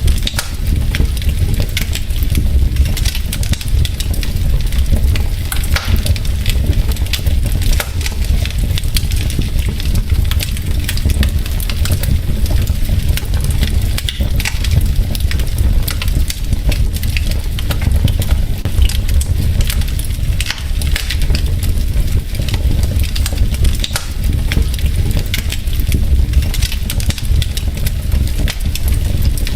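Wood logs burning in a fireplace, crackling steadily with many small irregular pops over a steady low rumble.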